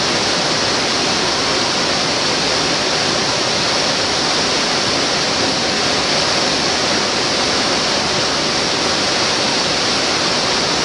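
Mountain waterfall: water falling and splashing in a loud, steady rush with no change.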